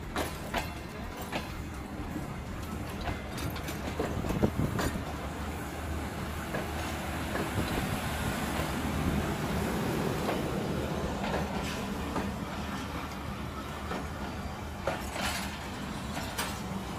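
Train moving along the track: a steady low engine drone with irregular knocks and clacks from the wheels over rail joints.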